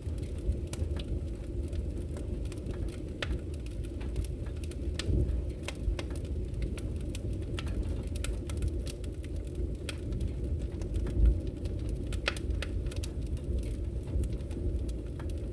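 Wood fire burning in a fireplace: a steady low rumble from the flames with scattered, irregular crackles and pops. One louder, low pop comes about two-thirds of the way through.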